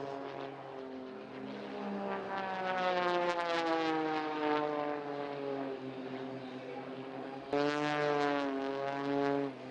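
RC model airplane's motor and propeller droning in flight, its pitch slowly falling, then jumping louder and higher about three-quarters of the way through before falling again.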